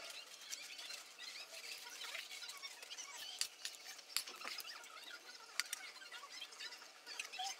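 Crunchy chewing of a fried gram-flour snack (bhujia) eaten from a spoon: many small crackles, with a few sharp clicks.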